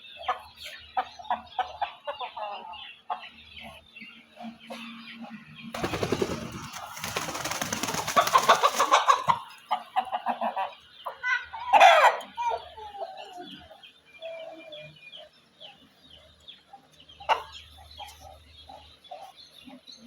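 Chickens clucking in many short calls, with a loud, rough noisy stretch lasting about three seconds partway through and one loud squawk about twelve seconds in.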